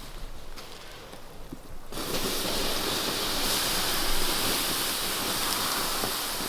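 Water doused on a campfire's hot embers, setting off a steady loud hiss about two seconds in.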